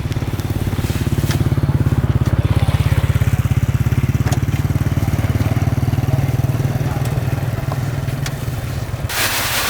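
Kubota DC70 combine harvester's diesel engine running with a fast, even throb, swelling louder a couple of seconds in. Near the end a loud hiss joins in.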